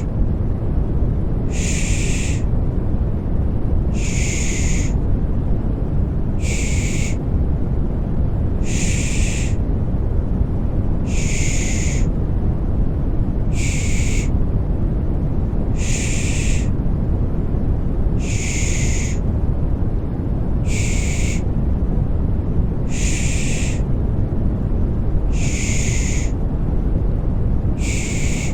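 Rhythmic 'shh' shushing for soothing a baby to sleep, one shush about every two and a half seconds, over steady low white noise.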